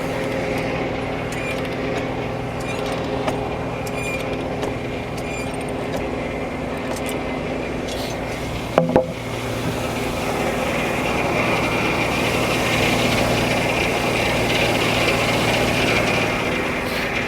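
Frick No. 1 sawmill running, its drive engine humming steadily with the saw spinning. About 9 seconds in there is a brief double knock, then a louder rushing noise of the saw cutting through the log.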